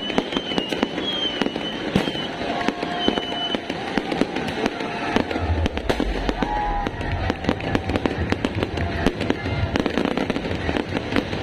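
New Year fireworks display: a dense run of rapid cracks and pops, with deep booming joining in from about halfway through.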